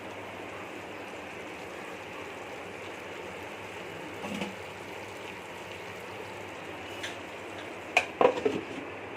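Marinated chicken cooking in ghee in a covered pan on a medium flame, a steady low sizzling hiss. About eight seconds in comes a brief clatter of a few sharp knocks.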